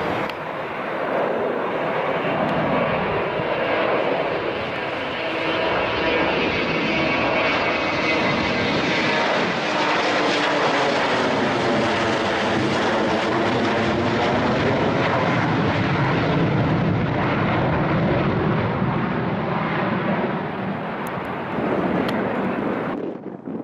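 Airplane engines at takeoff power as an aircraft passes by: a loud, steady rush with slowly sweeping tones through it, cutting off abruptly just before the end.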